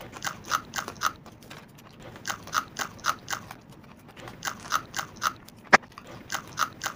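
Close-up chewing of a raw green chilli: runs of short crunches about four a second, broken by brief pauses, with one sharp click a little before the end.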